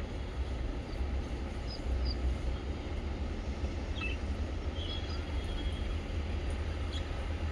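A few faint, short chirps and one brief whistle from small pet birds over a steady low rumble that is the loudest thing heard.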